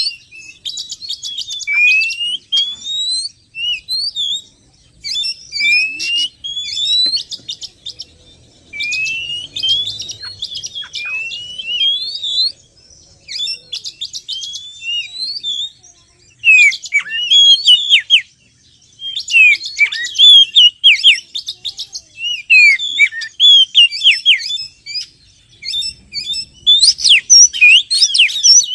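Oriental magpie-robin song: loud phrases of clear rising whistles, later mixed with sharp falling notes and quick chatter, separated by short pauses.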